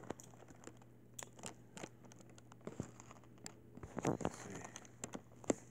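Faint eating sounds: chewing a cheesesteak sub and the crinkle of its paper wrapper, heard as scattered soft clicks and rustles, a little louder briefly about four seconds in.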